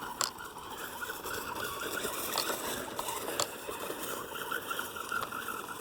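Hosim S911 RC truck driving, its electric motor whining in a wavering pitch as the throttle changes, with a few sharp knocks as it bumps over the ground.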